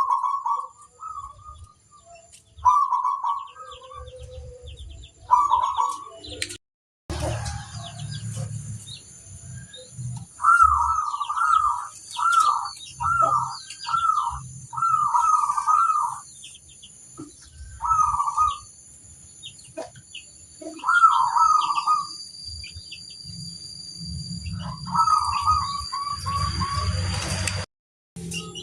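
Zebra dove (perkutut) singing: repeated cooing phrases of quick, trilled notes, one after another with short pauses between, over a low rumble. The sound drops out completely for a moment twice.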